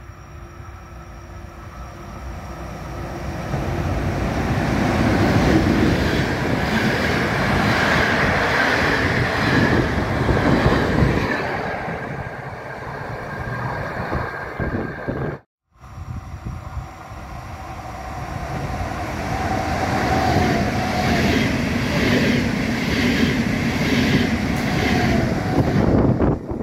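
Trains passing on the line: a rumble with wheel noise builds, peaks and fades away. The sound cuts off abruptly about halfway through, and a second pass builds up, ending with a regular clatter of wheels over rail joints.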